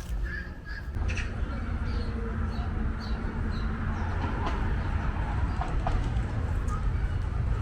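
Birds calling in short repeated chirps over a steady background of outdoor noise.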